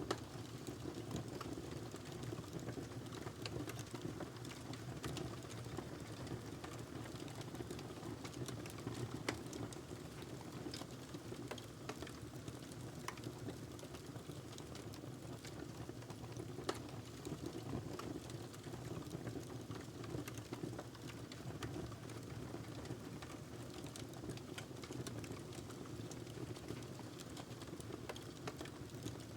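Wood fire burning in a fireplace, crackling steadily with irregular small pops and a few louder snaps over a low rushing of the flames.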